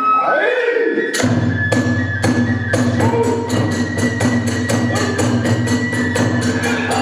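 Hiroshima kagura accompaniment: a high flute melody over fast, even percussion strokes, about four a second, that come back in about a second in after a short break.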